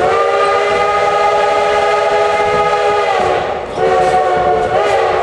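Chime steam whistle of Baldwin 2-8-2 steam locomotive #152, heard from a coach behind it: one long blast of several notes sounding together for about three seconds, a short pause, then a second, shorter blast.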